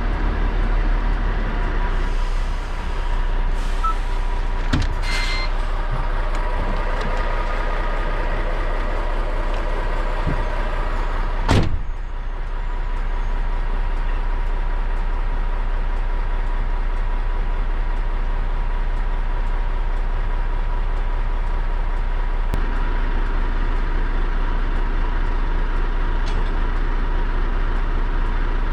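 An articulated lorry's diesel engine idling steadily, with a single sharp knock just under halfway through.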